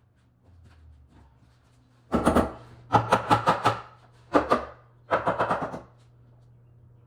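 Four bursts of rapid, sharp knocks, several a second, starting about two seconds in, over a steady low hum.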